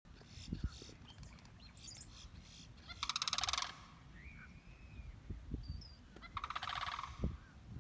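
A bird's rattling call, a fast run of pulses lasting under a second, heard twice about three seconds apart.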